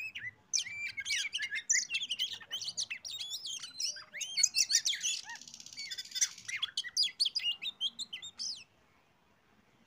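Oriental magpie-robin (kacer) singing a fast, varied song of sweet whistled notes, with a harsh buzzy rattle in the middle. The song stops about a second before the end.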